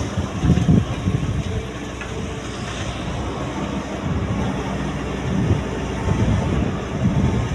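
A heavy machine's engine running steadily, with louder rough surges about half a second in and again toward the end.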